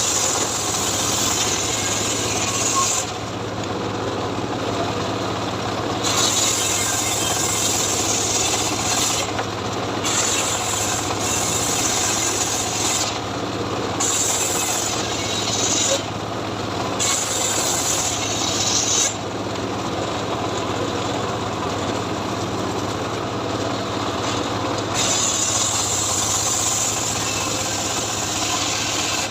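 A homemade engine-driven sawmill running steadily, its blade cutting teak with a loud rasping noise. The cutting noise comes and goes in stretches of two to four seconds while the steady hum of the drive carries on underneath.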